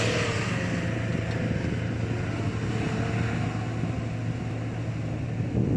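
A Jeep's engine running hard under load as it powers up a snowy hill, with a steady low drone that swells briefly near the end.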